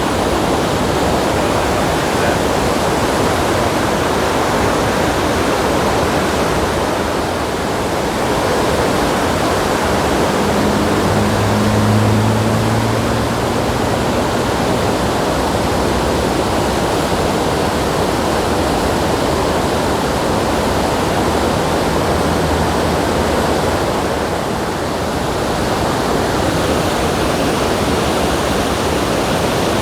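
Quarry Falls on the Cullasaja River rushing in a steady, loud roar, swollen to full flow after a day of heavy rain. A brief low hum rises over it about ten seconds in.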